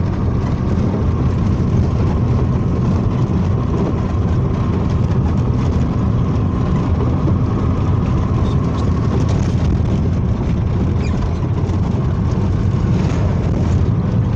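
Steady engine and road noise of a moving vehicle, with a constant low hum.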